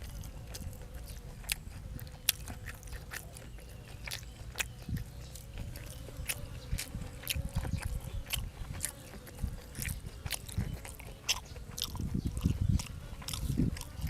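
A person chewing and biting food close to the microphone, with many short sharp clicks and crunches throughout.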